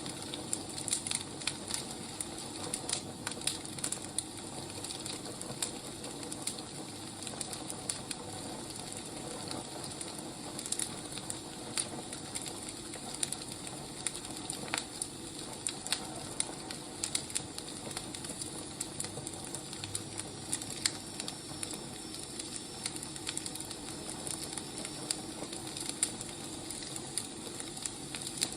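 Wood fire crackling: a steady hiss with frequent sharp pops and snaps.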